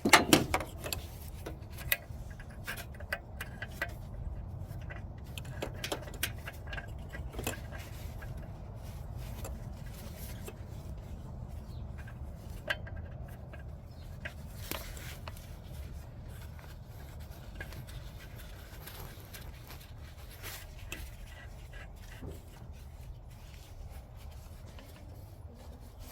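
Metal clinks and scrapes of hand tools and an oxygen sensor being threaded in and tightened on the exhaust, irregular and light. There is a single louder knock at the very start, over a steady low hum.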